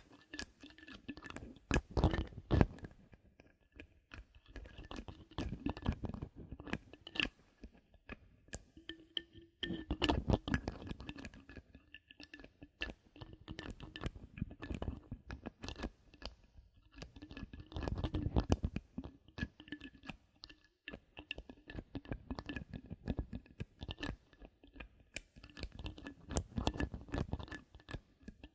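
Bottle caps handled close to the microphone: irregular clicking, tapping and crunchy scratching that comes in clusters with short pauses between them.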